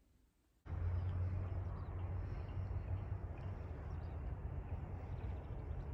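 Steady outdoor background noise with a strong low rumble. It starts abruptly about half a second in.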